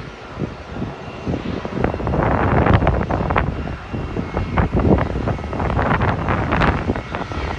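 Jet airliner engine noise at the airfield, mixed with gusty wind buffeting the phone's microphone in uneven bursts.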